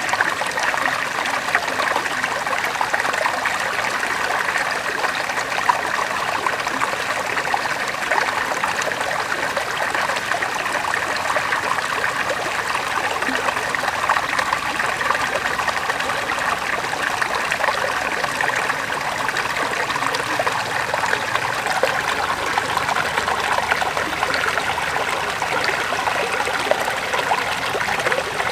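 River water flowing steadily over stones, a continuous babbling and trickling rush.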